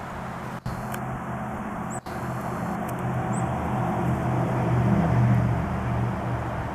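A motor vehicle's low rumble that swells about five seconds in and then eases, with two short high bird chirps over it.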